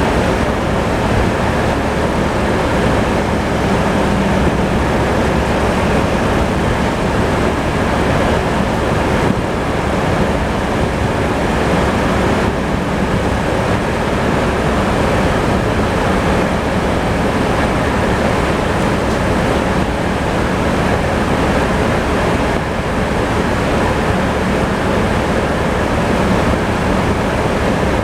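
Tractor engine running steadily under load, driving a sawmill saw.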